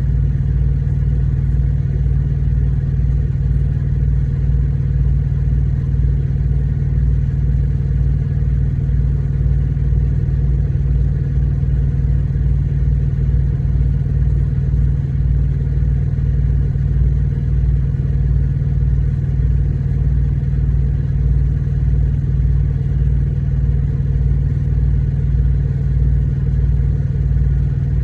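Truck engine idling steadily: an even low drone with a fast, pulsing rumble underneath.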